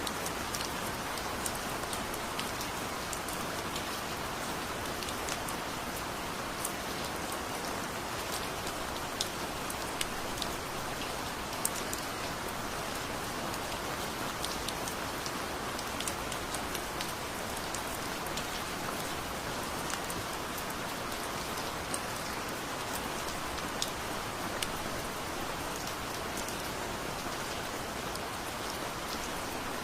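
Heavy rain falling steadily, with scattered sharp taps of single drops striking a surface.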